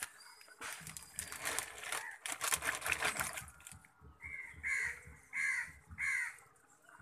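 A bird giving four harsh, caw-like calls in quick succession, each under half a second, in the second half. Before them comes a stretch of rough, crackly noise.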